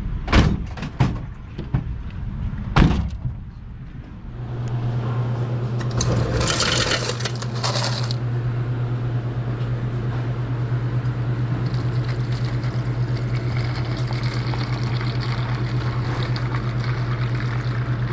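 A few sharp knocks as gear is set down, then a steady low hum starts about four seconds in and runs on, with a short rushing hiss a couple of seconds after it starts.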